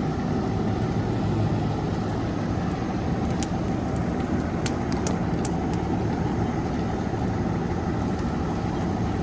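Fire engine's diesel engine running steadily, a continuous low rumble, with a few faint ticks midway.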